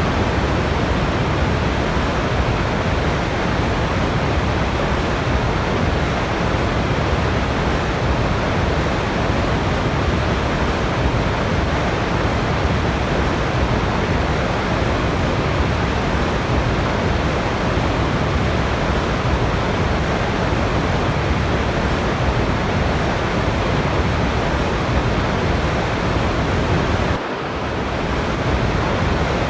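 Steady, even rushing of a waterfall. Near the end the sound drops briefly and swells back up over about a second.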